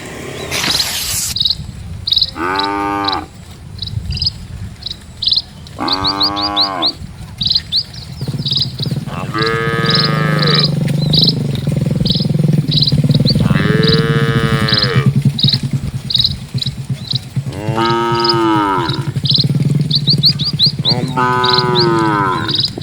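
Cattle mooing: six long calls that rise and fall in pitch, about every four seconds, while small birds chirp steadily. A low steady hum comes in about a third of the way through.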